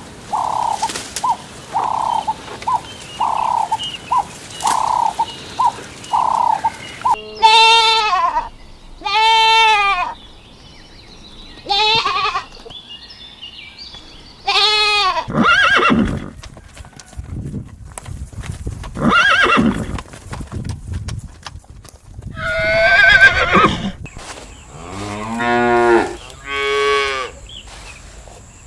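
A frog croaking in a steady rhythm of about two croaks a second, stopping about seven seconds in. After that comes a series of separate farm-animal calls, each about a second long, mostly high-pitched with a few lower ones near the end.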